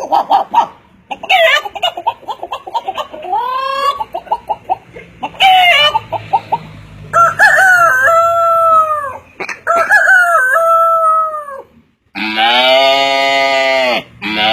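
Rooster crowing and chickens clucking in a series of short, separate calls. Near the end, after a brief break, a longer, lower-pitched animal call begins.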